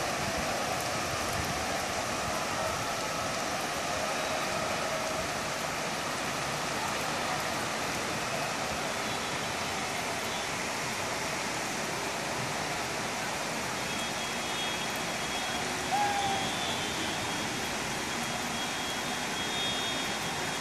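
Steady rain falling, an even hiss of drops, with one brief sharper sound about three-quarters of the way through.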